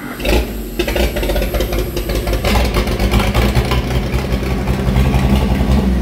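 Oliver 770 tractor's six-cylinder engine starting up: it catches right away with rough, uneven firing, then settles into a steadier idle about two and a half seconds in.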